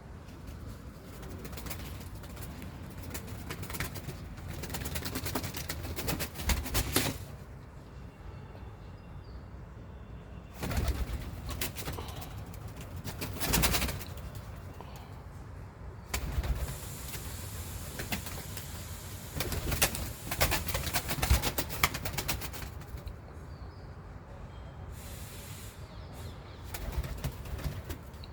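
Pigeons cooing, with bursts of close knocking and rustling several times.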